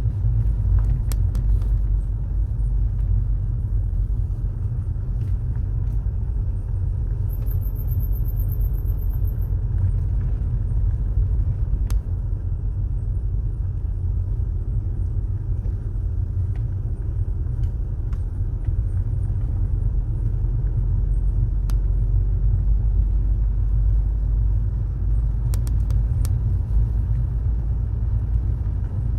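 Car driving along a road: a steady low rumble of engine and tyre noise. A brief high-pitched pulsing trill sounds about a quarter of the way in.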